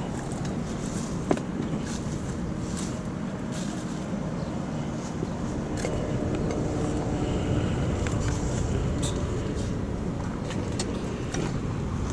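A motor vehicle running nearby, its hum rising and falling in the middle of the clip, over steady road noise, with scattered light clicks.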